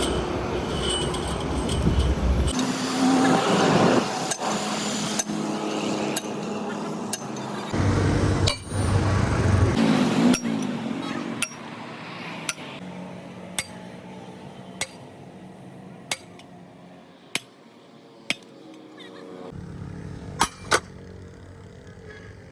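Workshop noise: a low rumble and clatter for the first half, then sharp metal clinks and taps, roughly one a second, as the background quietens.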